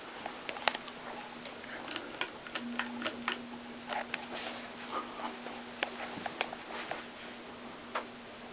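FASCO Charleston ceiling fan running with a steady motor hum, over a string of irregular sharp clicks and taps.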